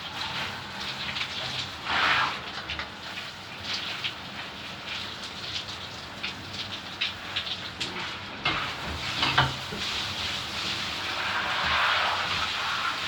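Water spraying from a bath sprayer in a steady hiss as dogs are rinsed. The spray grows louder near the end.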